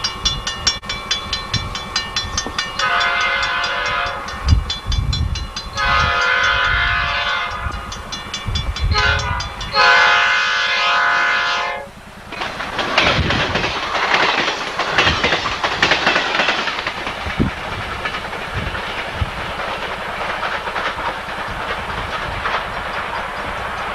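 Amtrak F40PH diesel-electric locomotive sounding its chime horn in the grade-crossing pattern, long, long, short, long. Then the train rushes past close by, its wheels clicking over the rail joints, and the noise fades as it draws away.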